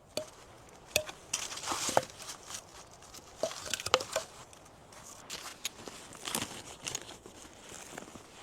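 A run of irregular crunches, cracks and rustles, with a few sharp snaps about one, two and four seconds in.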